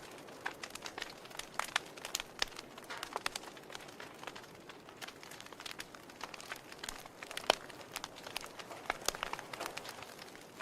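Wood fire burning in a fireplace: logs crackling with frequent irregular sharp pops over a soft hiss, one louder pop about seven and a half seconds in.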